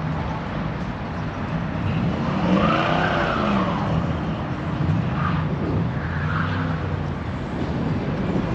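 Car engine revving, its pitch rising and falling about two seconds in, then a second, shorter rev a few seconds later.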